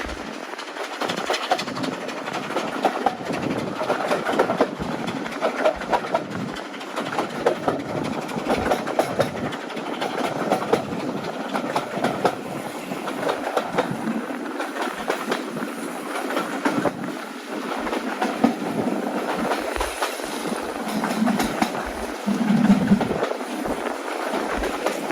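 Heritage train running along the track, its wheels clattering over the rail joints with a steady rattle and many small clicks.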